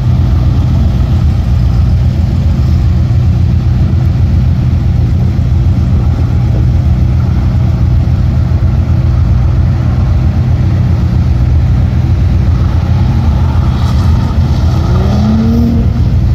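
A car engine idling close by with a steady deep rumble, while an autocross car on the cone course accelerates, its engine note rising in pitch near the end.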